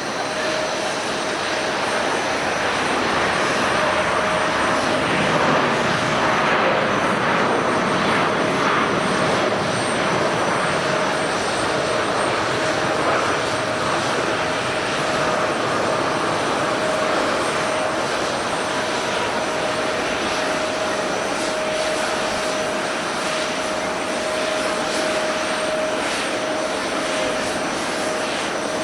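Jet airliner engines running loud and steady, a wide roar with a steady whine through it, swelling a few seconds in and then easing slightly.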